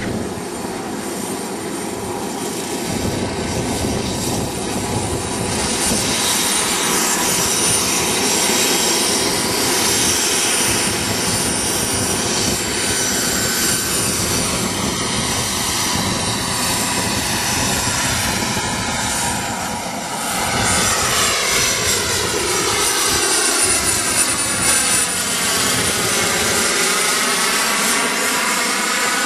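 Radio-controlled model helicopter with a small gas-turbine engine running, a steady high whine over a dense rush of exhaust and rotor noise. From about twenty seconds in, the tone sweeps down and back up as the helicopter moves.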